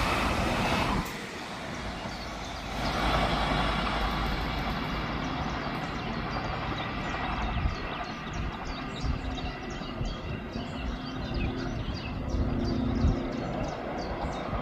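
Electric double-deck multiple unit trains running on the line. First a passing train's rushing wheel and running noise, which drops off sharply about a second in. Then a steady distant rumble and hum from approaching trains, with high chirps repeating a few times a second over it.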